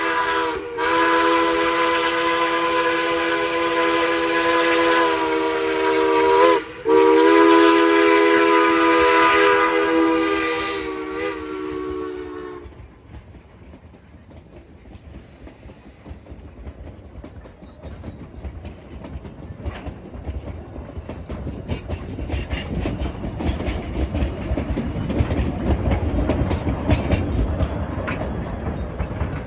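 Durango & Silverton steam locomotive's chime whistle blowing a multi-note chord in long blasts, broken twice, for a road crossing; it stops about twelve seconds in. Then the train rumbles past with a rapid clickety-clack of wheels on the rail joints, growing louder toward the end.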